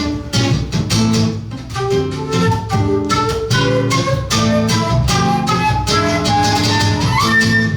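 Flute and seven-string guitar duo playing live: quick plucked guitar chords under a flute melody. Near the end the flute slides up onto a held high note and the piece ends.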